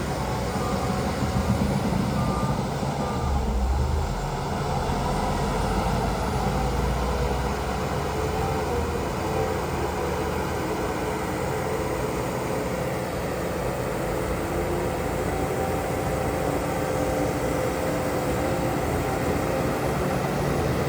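Heavy diesel earthmoving machinery running steadily, a continuous low engine rumble.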